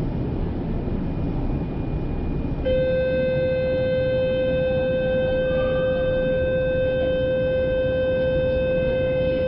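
Steady rumble of a Kyoto Municipal Subway Karasuma Line train. Under three seconds in, a loud, steady, buzzer-like tone of one fixed pitch cuts in and holds without changing.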